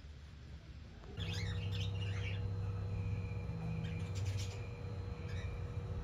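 Birds chirping, starting about a second in with a quick burst of twittering calls, then a held whistling note and a few sharp clicks.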